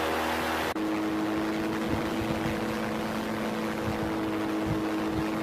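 Propeller aircraft engine droning steadily, with a steady low hum; an abrupt cut less than a second in leaves a smoother, steadier drone.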